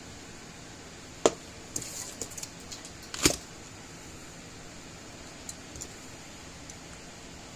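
Small hard parts and hand tools being handled: two sharp clicks about two seconds apart, light clatter between them, and a couple of faint ticks later, over a steady hiss.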